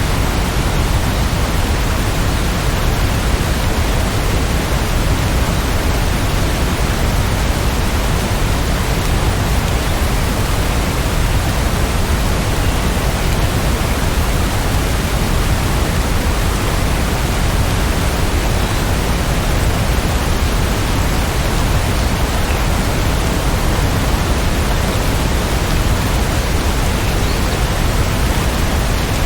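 Steady rainfall, an even, unbroken hiss with no single drops standing out.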